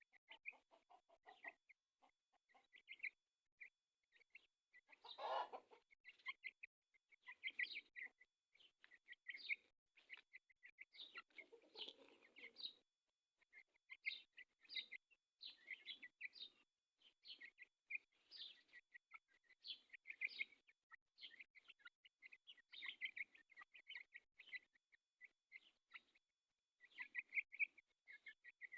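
Chickens clucking, with frequent short high chirping calls throughout and a louder, fuller call about five seconds in.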